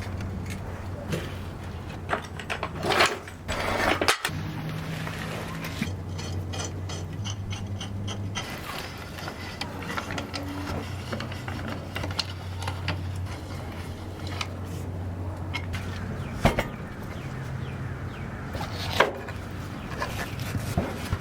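Rubbing and scraping of hand work on parts, with a few sharp knocks, over a steady low hum.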